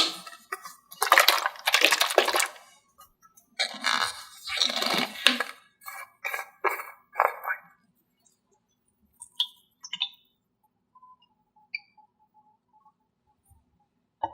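Small hard objects clinking and clattering in bursts for about eight seconds, then only a few faint scattered ticks.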